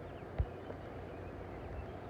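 Garden ambience after rain: a steady low rumble and hiss with faint short high chirps, and a single low thump about half a second in.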